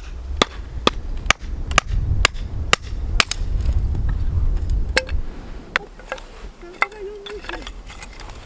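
A hand tool striking hard again and again, about two sharp blows a second, then a few more spaced-out blows, as in chopping firewood or driving tent pegs.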